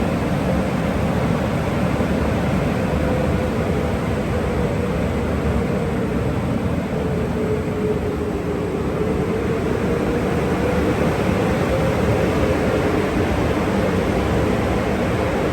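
Automatic car wash tunnel equipment running: a steady loud rush of noise with a constant hum that dips slightly in pitch midway and then recovers.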